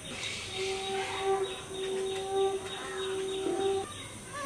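Birds chirping, with a long steady tone that comes in about half a second in and holds for about three seconds before stopping.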